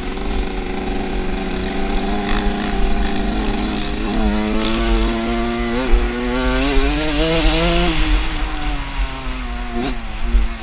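Off-road motorcycle engine running, revving up from about four seconds in to a peak near eight seconds, then easing back off.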